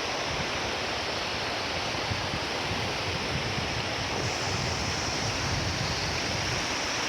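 A river rushing steadily over rocks.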